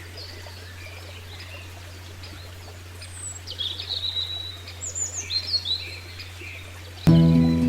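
Birds chirping and trilling in short, quick calls over a steady low hum, busiest in the middle. Near the end, music with sustained notes starts abruptly and is the loudest sound.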